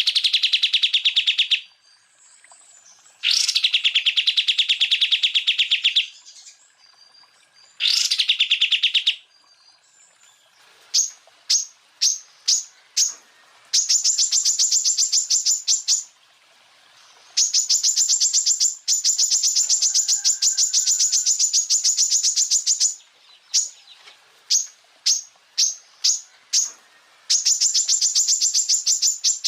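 Greater green leafbird (cucak ijo) singing loud, very rapid machine-gun trills, the 'tembakan' bursts prized by bird keepers. Three lower trills in the first nine seconds give way to quick runs of short sharp notes and longer, higher-pitched trills.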